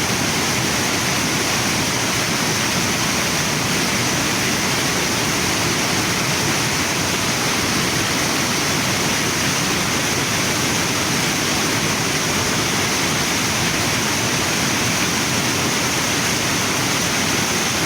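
Waterfall and river water rushing, a steady, unbroken sound of falling and flowing water.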